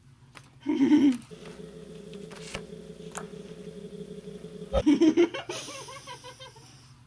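Two short bursts of laughter, about a second in and again about five seconds in, with a steady low hum between them.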